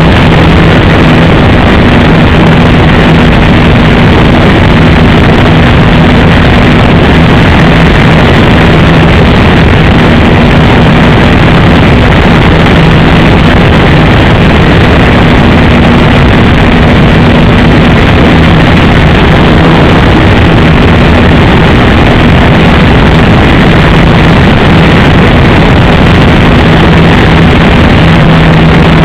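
Engine of an RC model Piper J-3 Cub running steadily in flight, its buzzing tone fading and returning. The recording is overloaded and heavily distorted.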